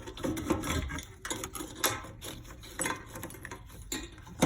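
Irregular metallic clinks and clatters of hand tools and parts being handled during removal of a car's fuel pump.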